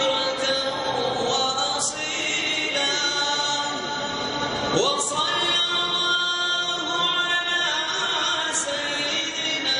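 Unaccompanied voices singing long, held notes together, with several pitches sounding at once.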